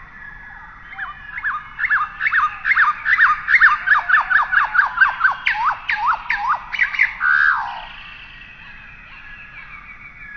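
A bird calling: a rapid run of loud, falling whistled notes, about four a second, that begins about a second in and stops after some six seconds.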